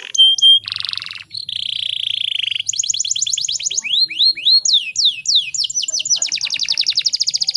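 Canary singing a varied song. It opens with a short steady whistle and buzzy trills, then runs into fast repeated chirps and downward-swooping notes, and speeds into a rapid rolling trill near the end.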